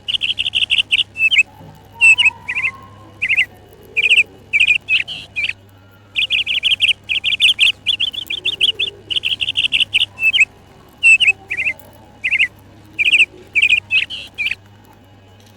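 Budgerigar chirping: fast trains of high, sharp chirps in bursts with short pauses, alongside some single chirps.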